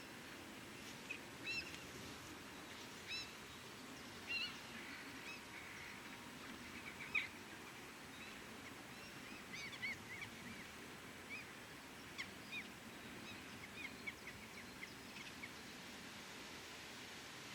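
Birds chirping: many short, high calls scattered irregularly over a faint, steady low background hum.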